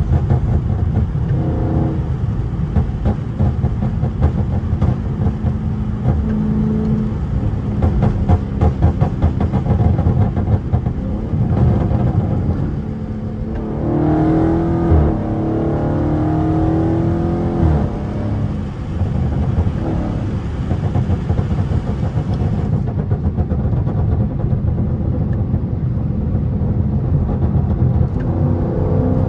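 Dodge Charger's 392 HEMI V8 running under way with a pop-tuned exhaust. Engine pitch rises and falls under throttle about halfway through.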